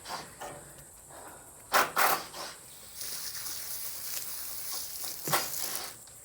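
Water bucket being scrubbed and rinsed: two quick scraping strokes, then a steady hiss like running water for about three seconds, with another stroke near the end.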